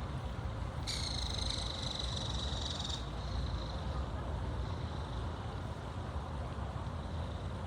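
Steady low outdoor background rumble, with a high, thin, steady tone that comes in about a second in and stops about two seconds later.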